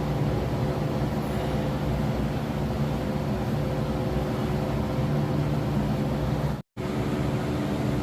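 Steady mechanical hum with a few even low tones, like a fan or motor running in the background. It cuts out completely for a split second near the end.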